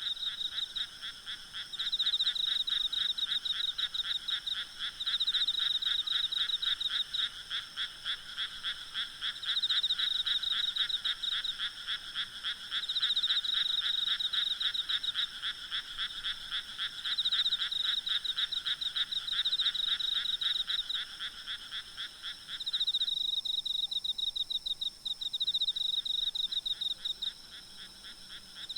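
A night chorus of frogs croaking in rapid pulsed calls, rising and falling in bouts a few seconds long, over a steady high hum of insects. About 23 seconds in, the lower-pitched part of the chorus stops and only the higher calls carry on.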